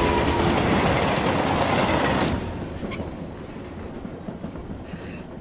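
Passenger train running along the rails, loud at first, then dropping sharply to a quieter rumble with a few faint clicks about two seconds in.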